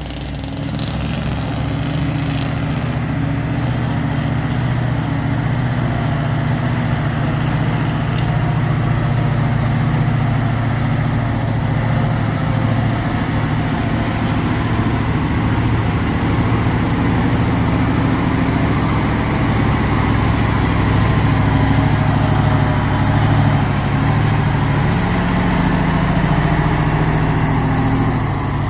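A vehicle engine running steadily at low revs, rising slightly near the end.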